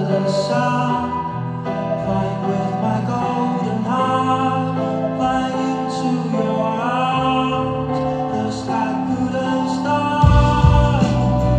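A live band playing a pop-rock song, with guitar and a sustained melody line over chords. About ten seconds in, the low end gets heavier and punchier as bass and drums come in harder.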